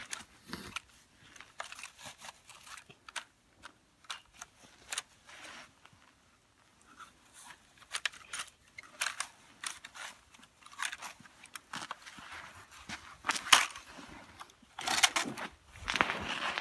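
Snow crunching in irregular scattered crunches, sparse at first and growing busier and louder in the second half.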